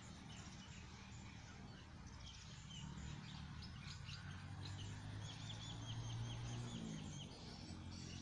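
Faint birds calling, including a quick run of about ten repeated short high notes in the middle, over a low steady rumble.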